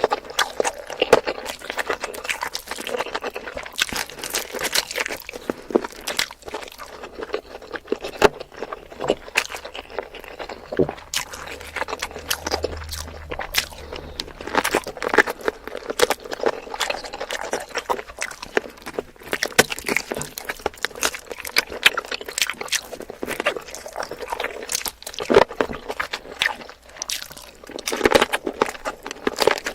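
Close-miked chewing of spicy chicken feet: a dense, irregular run of wet mouth smacks and small crunches.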